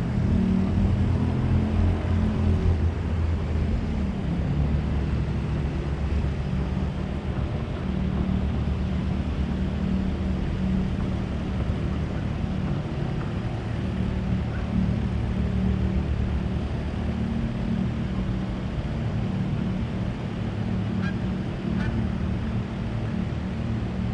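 A steady low engine hum that stays level throughout, with a few faint short higher calls near the end.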